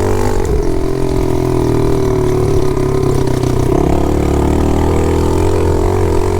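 Pit bike's small single-cylinder engine running at a steady, held speed, its pitch shifting slightly about four seconds in.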